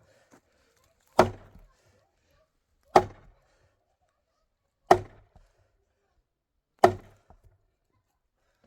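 Four heavy chopping strikes, evenly spaced about two seconds apart, each sharp at the start and fading within a fraction of a second.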